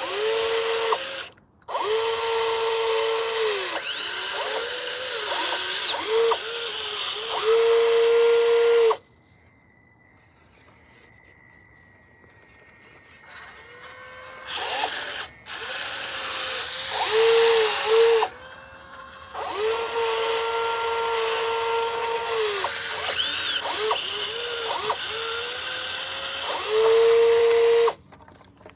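Radio-controlled model excavator's electric motors whining in spells of a few seconds, the pitch sagging and climbing back as each movement starts and stops. The whine drops out for several seconds about a third of the way in, then comes back.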